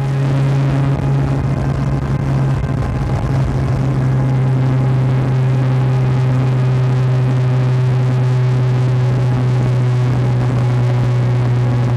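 Naturally aspirated, bridgeported 13B rotary engine of a Mazda RX-7 FC running at steady revs, one constant engine note with road and wind noise.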